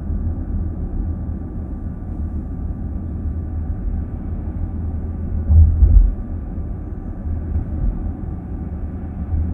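Steady low rumble of road and tyre noise heard inside a moving car's cabin, with a brief louder low thump a little past halfway through.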